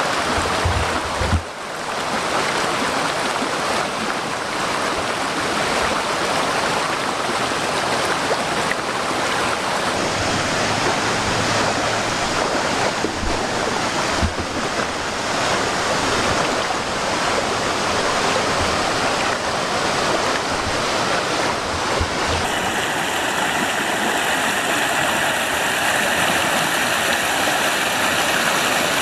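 Small forest waterfall: water falling and flowing over rocks in a steady rush. The character of the rush shifts slightly about two-thirds of the way through.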